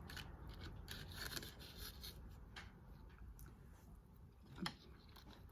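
Faint scratching, rubbing and small clicks of seafood being picked apart and handled by hand while eating, with one slightly louder short sound about four and a half seconds in.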